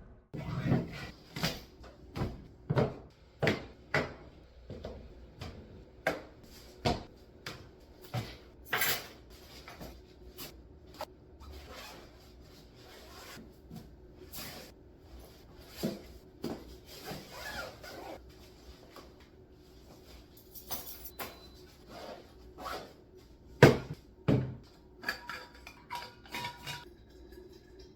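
A series of irregular knocks and clatters of objects being handled, about one every half second to second at first, then sparser, with one sharp knock the loudest, over a faint steady hum.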